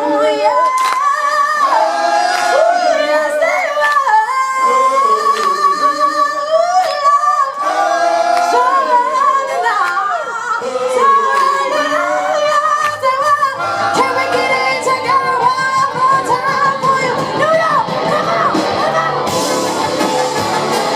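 Live soul band performing: a female lead singer holds long, wavering vocal lines over sparse backing. Bass and drums come in about two-thirds of the way through, with cymbals near the end.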